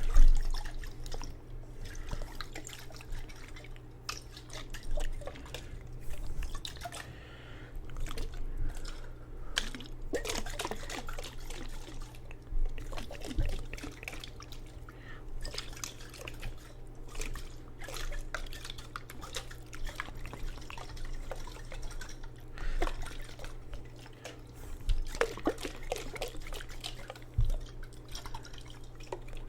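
Water sloshing and dripping in a jar, close to the microphone, in irregular small splashes, over a steady low hum.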